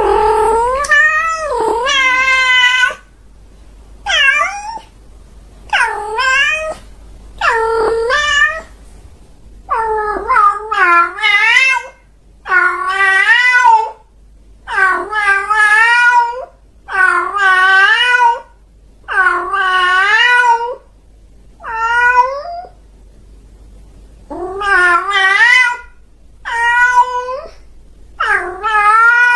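A cat meowing over and over, about one long meow every two seconds, each call bending up and then down in pitch.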